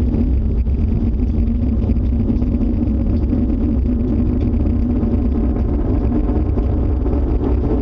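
Loud, steady low roaring rumble of unknown origin, the kind that residents took for an approaching tornado or a jet engine.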